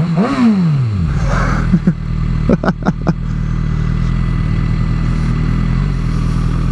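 2006 Suzuki GSX-R 750's inline-four engine revved hard once at the start, its pitch falling back over about a second. A few quick throttle blips follow between about two and three seconds in, then it runs steadily.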